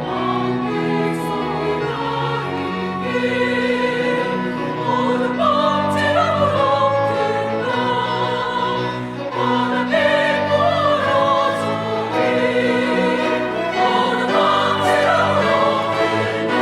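Church choir singing a hymn-anthem with chamber orchestra accompaniment: strings, winds and keyboard holding sustained chords under the voices.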